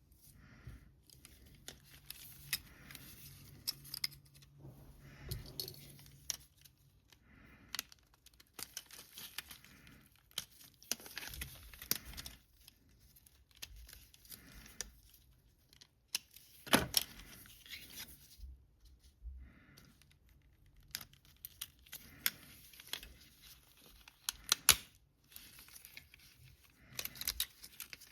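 A PS5 DualSense controller being taken apart by hand: irregular plastic clicks, taps and scraping of tools and small parts, with two sharper snaps, one past the middle and one near the end.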